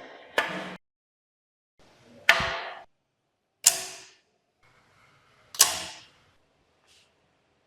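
Four sharp hits, spaced about one and a half to two seconds apart, each cutting in suddenly and ringing out briefly.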